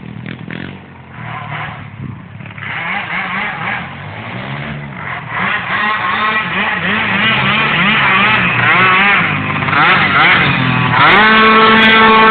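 Small-capacity off-road engine revving up and down repeatedly, its pitch wavering and getting louder, then held at a steady high rev near the end.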